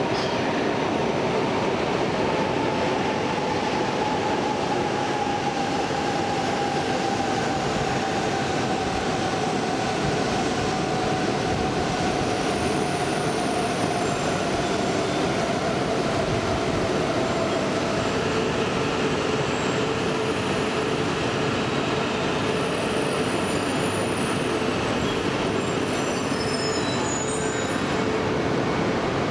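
Coupled E4 series and 400 series Shinkansen trains rolling into the station and slowing as they arrive, with a whine that sinks slowly in pitch. Thin high-pitched squeals come in during the second half and grow near the end as the train draws to a stop.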